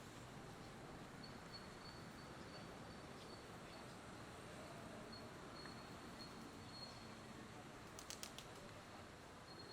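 Near silence: faint room tone with a thin high whine that comes and goes, and a quick cluster of soft clicks about eight seconds in.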